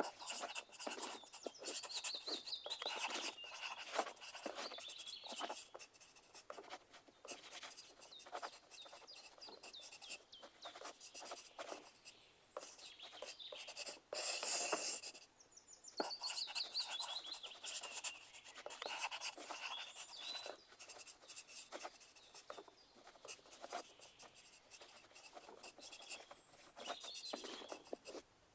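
Pencils scratching on paper in quick, irregular strokes with short pauses. Twice, about two seconds in and again near the middle, there is a brief run of high chirping ticks.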